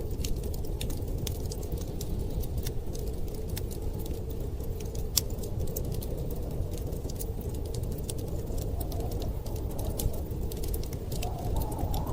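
Wood fire crackling in a fireplace, with scattered sharp pops, over a steady low rumble of storm wind.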